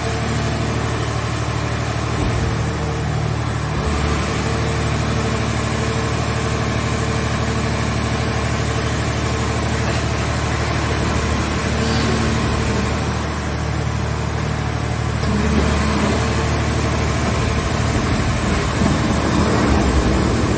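Mobile scrap car-shell baler running: its engine and hydraulic power unit run steadily, with a high whine that dips in pitch twice, around the third second and again around the fourteenth, as the load changes.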